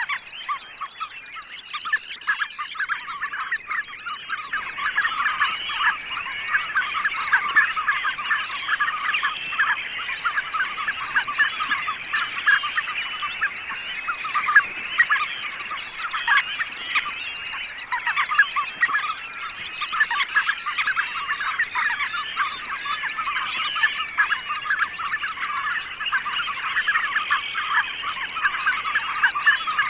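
A large flock of birds calling all at once: a dense, continuous clamour of many overlapping calls, growing fuller about four seconds in.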